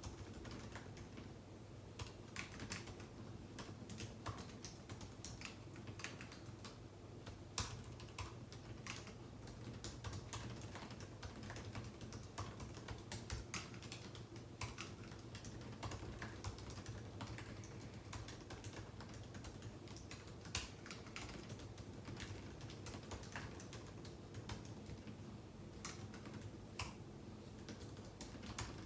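Typing on a computer keyboard: irregular runs of keystroke clicks with short pauses between them, over a faint steady low hum.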